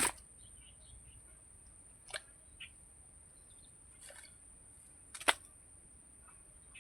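A handful of short sharp knocks or slaps, about five spread over several seconds, the loudest near the start and about five seconds in, over a steady high-pitched hiss.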